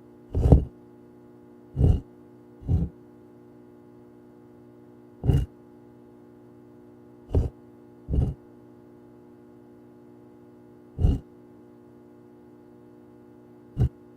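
Eight short, dull thuds at irregular intervals over a steady low hum.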